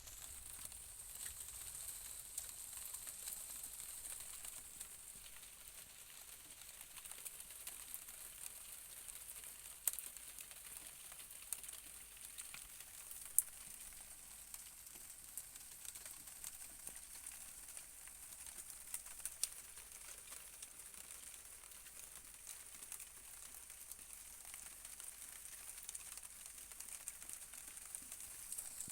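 Rain falling in a steady hiss, with scattered sharper drops ticking on a hard surface. A faint, steady high-pitched whine runs behind it.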